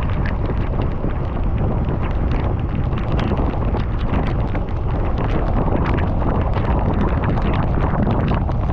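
Wind buffeting the microphone of a camera riding on a bicycle, a loud, steady rumble with many small sharp ticks scattered through it.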